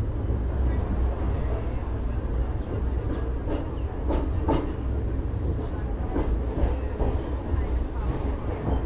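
Passenger train of the Alipurduar Junction–Mariani Intercity Express running along the track: a steady low rumble with a few wheel clacks over rail joints midway. Short high-pitched squeals come in near the end.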